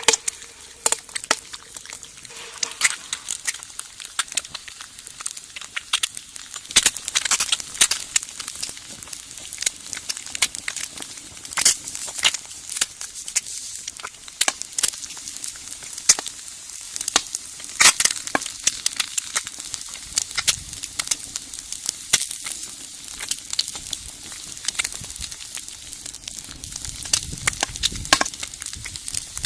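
Food sizzling in a pan over a wood fire in a brick rocket stove, with a steady hiss and many sharp, irregular crackles and pops.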